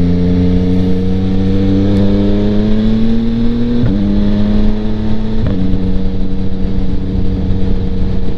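2025 Yamaha MT-09's 890cc inline-three running through a Kelpi Flanker aftermarket exhaust with the baffle in, heard from inside the rider's helmet with wind noise. The engine note climbs steadily under throttle for about four seconds. It changes abruptly twice, about four and five and a half seconds in, then holds steady.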